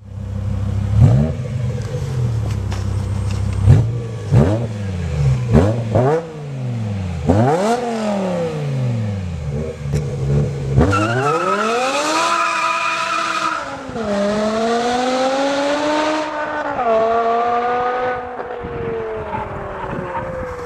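Car engine idling, then blipped about six times in quick revs that rise and fall back. It then pulls away under hard acceleration with a long climbing note, and the pitch drops suddenly twice, like gear changes.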